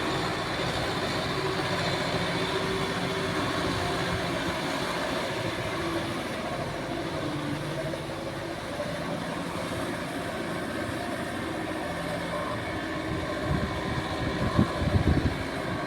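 Kubota tractor's diesel engine running steadily under work, its pitch shifting a little. A few louder low thumps come near the end.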